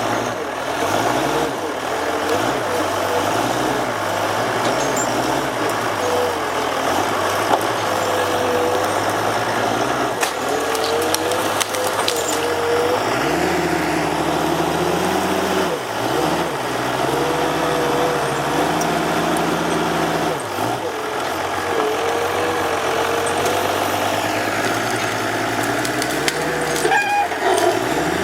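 Heavy diesel machine's engine working, its pitch rising and falling again and again as it is throttled up and down under load, with a wavering higher whine running above it.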